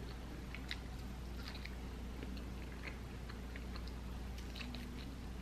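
Chewing and biting into a buffalo chicken wing close to the microphone, with small, irregular mouth clicks. A steady low hum runs underneath.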